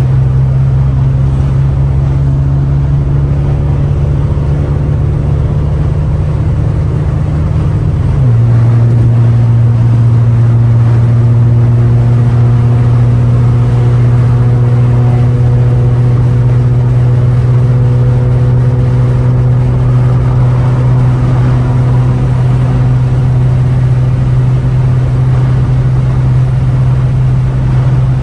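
Catless, straight-piped 2015 Ford Taurus exhaust droning loudly and steadily at highway speed. The drone drops slightly in pitch about eight seconds in, then holds level.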